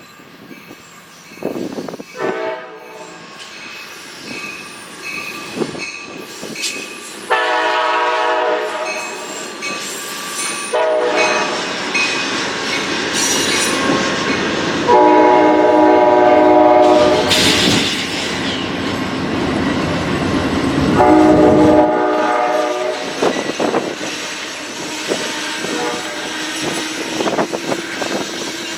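Locomotive air horn sounding a series of blasts as a train approaches and passes. The horn chord comes faintly once, then four louder times, the third held longest. Under it the rumble of the train builds and then eases, with wheels clacking over the rail joints.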